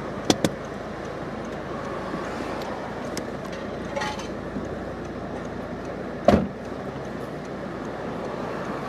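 Steady car and street noise with no one speaking, broken by two sharp clicks just after the start and a louder thump about six seconds in.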